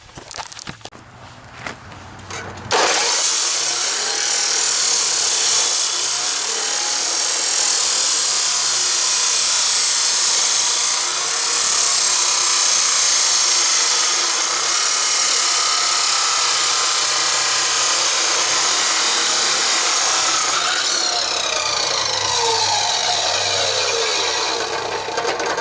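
A power tool cutting through the steel exhaust pipe on a muffler's inlet. It starts suddenly about three seconds in with a loud, steady shriek, the pitch wavering as the cut goes on, and cuts off suddenly at the end. A few knocks of handling come before it.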